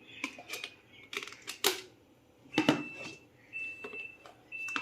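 Plastic food containers and jars clicking and knocking as they are handled in a refrigerator, followed by three short, steady high-pitched tones about a second apart.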